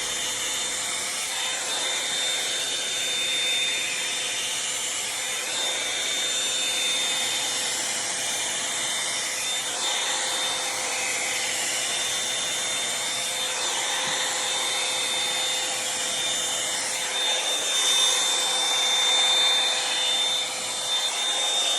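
Revlon One-Step hot-air brush dryer running steadily: a blowing rush with a constant high whine, the airflow shifting a little in tone as the brush is worked through hair.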